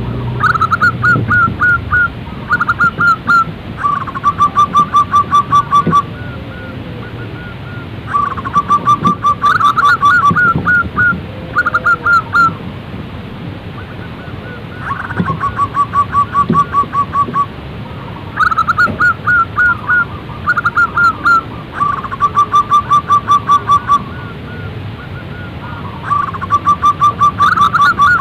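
Zebra doves (perkutut) singing, phrase after phrase of quick staccato coos. Even runs of rapid notes alternate with groups of rolling, up-and-down notes, over a steady hiss.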